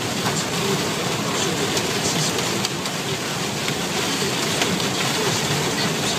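Car driving through heavy storm rain on a motorway: a steady rush of rain and tyre spray on the wet road.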